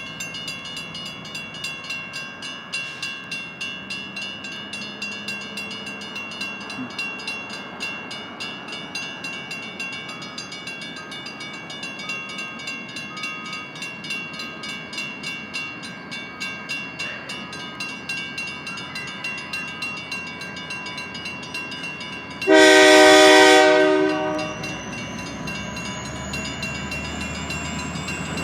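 Railroad crossing bell ringing steadily in quick repeated strokes, then about 22 seconds in a freight locomotive sounds one loud horn blast for about a second and a half.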